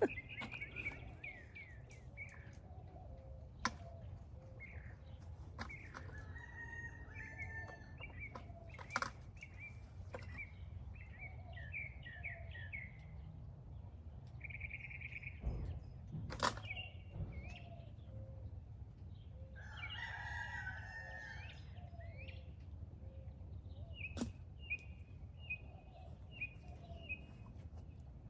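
Chickens calling with short repeated chirps and clucks, and a rooster crowing once about twenty seconds in. A few sharp clicks break in now and then over a steady low rumble.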